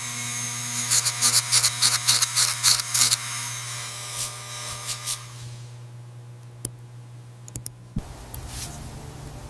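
Rapid bursts of hissing spray over a steady low motor hum, the hissing fading out about halfway through, with a few light clicks after.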